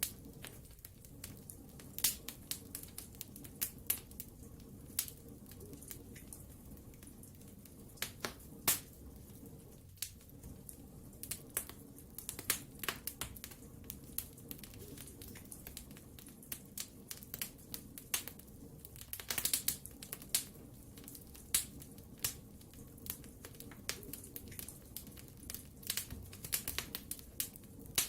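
Wood fire burning in a fireplace: irregular sharp crackles and pops over a low, steady rumble of flames, with a quick flurry of pops near the middle.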